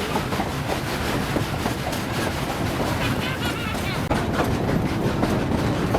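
Steady rumble and clatter of the Durango & Silverton narrow-gauge steam train running along the track, heard from a riding car.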